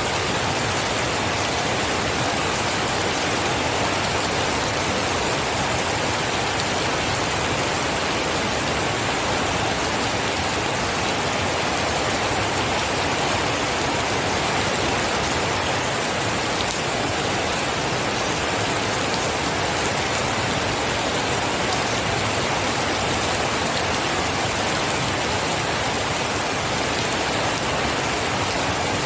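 Steady rain falling onto a surface, an even hiss with no thunder or breaks.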